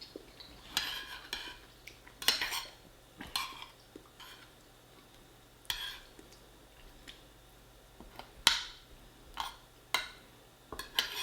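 Cutlery scraping and clinking against a plate in a string of short, separate strokes, with the loudest about eight and a half seconds in.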